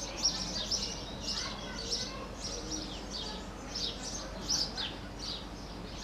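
Many small birds chirping together: short, high chirps that fall in pitch, several a second and overlapping.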